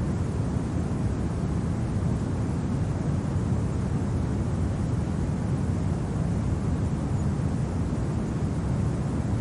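Steady low wind noise, a continuous rumble without gusts or breaks.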